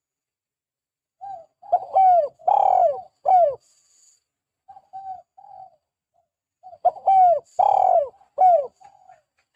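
Spotted dove (tekukur) cooing: two phrases of several loud coos, each coo falling in pitch, about five seconds apart, with a few soft short notes between them.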